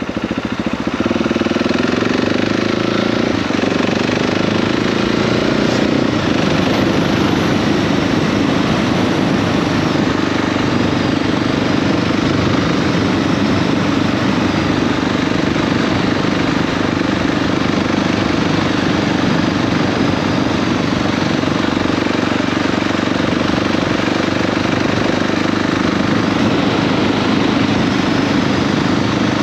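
KTM 690 SMC R's A2-restricted single-cylinder engine running at a steady pace under way, with little change in pitch.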